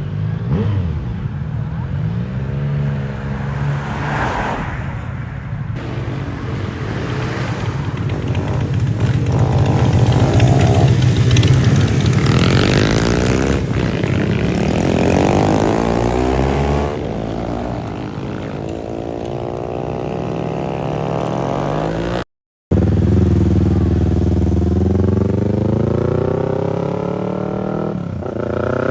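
Motorcycle engines revving and accelerating past one after another, their pitch rising and falling as each goes by. The sound cuts out for about half a second partway through.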